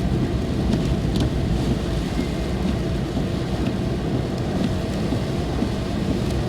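Steady low rumble inside a car's cabin in the rain, with rain noise and a few faint, scattered raindrop ticks.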